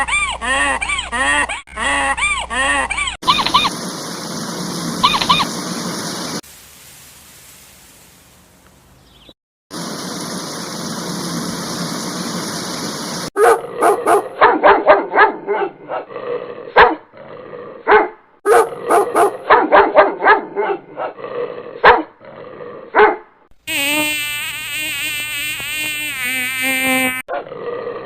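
A string of short animal clips, mostly a dog barking and whimpering, with quick sharp barks packed together in the middle and a wavering whine near the end.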